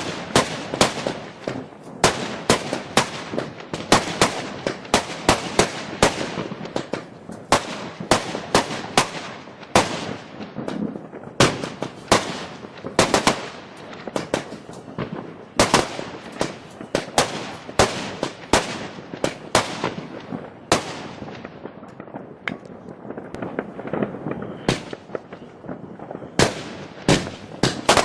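Fireworks going off in a dense series of sharp bangs, about one or two a second, with crackling between them.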